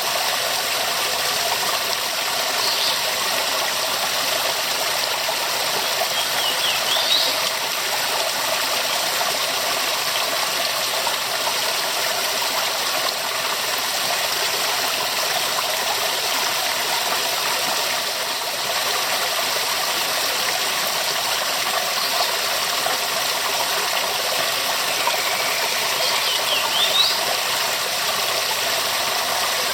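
Waterfall: water falling and rushing steadily with an even, unbroken noise. A few short high chirps stand out briefly over it.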